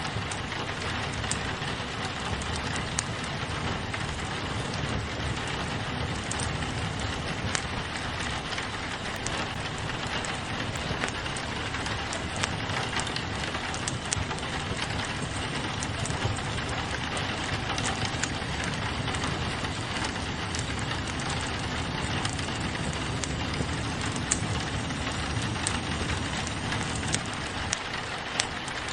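Steady rain against a window together with a crackling wood fire, with sharp pops and snaps of the fire scattered irregularly over the even hiss of the rain.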